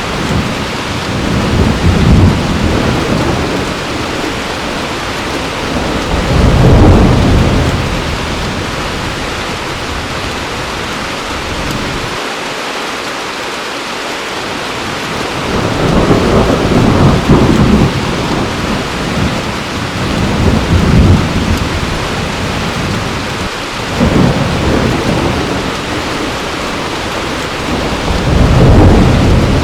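Heavy rain falling steadily, with rolling thunder rumbling in repeated low swells, the strongest about 7 s in, around 17 and 21 s, and near the end.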